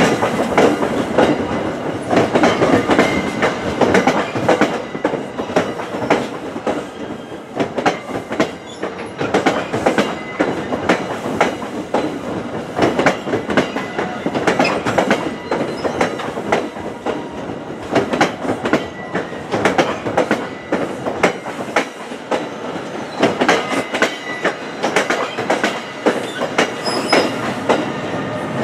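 NJ Transit passenger coaches rolling past, their wheels keeping up a steady clickety-clack of fine clicks on the rails.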